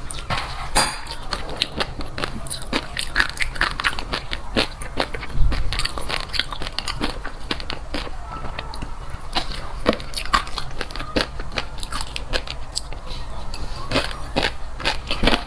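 Close-up eating sounds of fish roe being chewed: rapid, irregular popping and crackling as the small eggs burst between the teeth, with wet mouth sounds.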